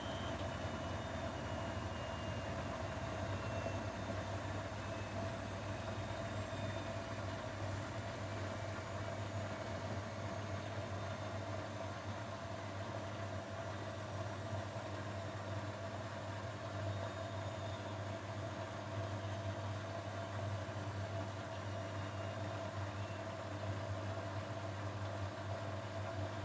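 Grundig washing machine running with a steady motor hum, with a faint high tone that slides slowly downward in the first few seconds.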